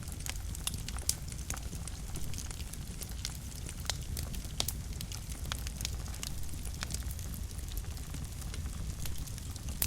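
Wood fire burning in a fireplace, with a steady low rumble of flame and frequent irregular sharp crackles and pops from the burning logs.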